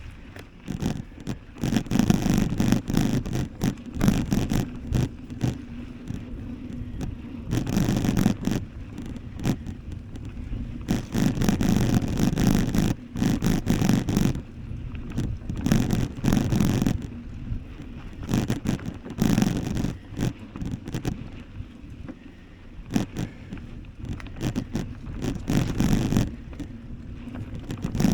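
Wind buffeting the microphone of a camera carried on a moving bicycle, in irregular gusts with a low rumble.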